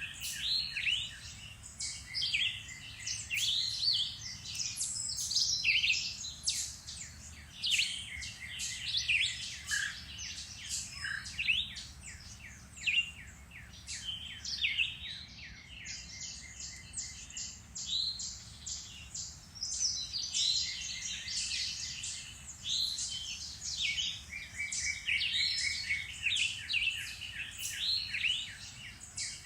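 Several songbirds singing and chirping at once, a dense overlapping chorus of quick trills and whistled notes.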